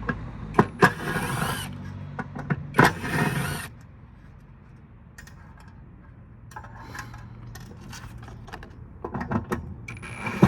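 Hand tools working on metal parts: clicks, knocks and scrapes as a component is worked loose. There is a busy spell in the first few seconds, a quieter stretch of scattered ticks, then more knocking near the end.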